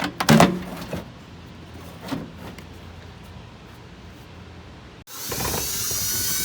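Sheet-metal RV furnace case knocking loudly a few times as it is pulled into its mounting opening. About five seconds in, a loud steady whirring rush starts abruptly and lasts about a second and a half.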